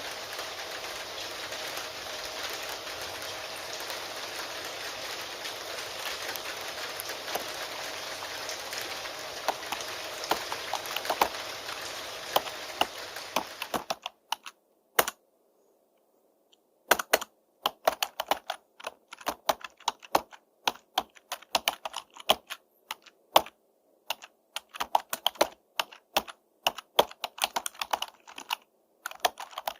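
Steady rain, with keystrokes starting to click through it; a bit before halfway the rain cuts off suddenly, leaving computer keyboard typing alone, in irregular runs of keystrokes with short pauses.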